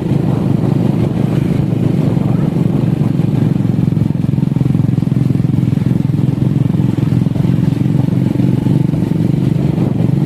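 Motorcycle engine running steadily at cruising speed, heard from a moving motorcycle, with an even, unbroken drone.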